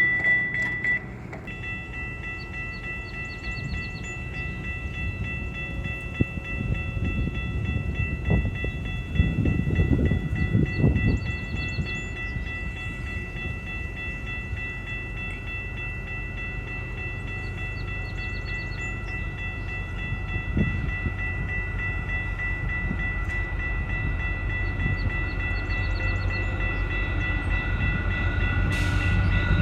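Passenger train approaching: a low rumble swells, eases, then grows steadily louder toward the end, under a steady high-pitched whine.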